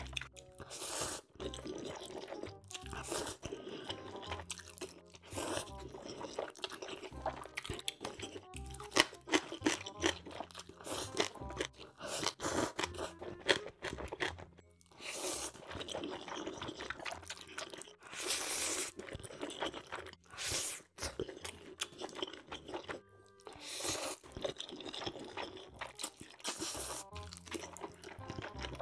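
Close-miked crunchy chewing and biting while eating kimchi and black-bean-sauce noodles, many irregular crunches, with background music underneath.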